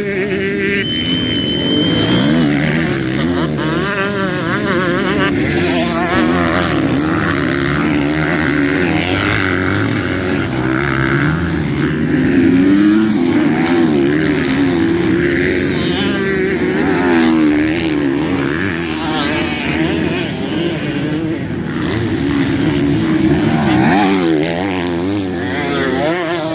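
Motocross motorcycle engines revving up and down repeatedly, rising and falling in pitch as they accelerate and back off.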